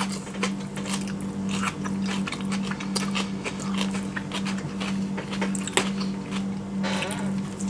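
Two people biting and chewing food close to the microphone: many short, irregular wet clicks and smacks, over a steady low hum.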